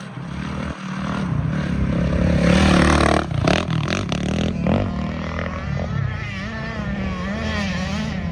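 Off-road racing engines revving, loudest about two to three seconds in, with the pitch rising and falling quickly in the second half as the throttle is worked.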